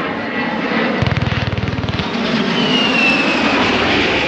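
Aircraft engine running loudly, with a rapid pulsing rattle for about a second starting a second in, and a high whine falling slightly in pitch near the end.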